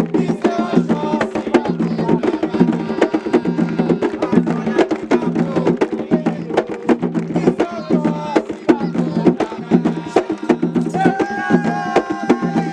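Umbanda ritual music: atabaque hand drums beating a fast, steady rhythm, with voices singing a ponto over it.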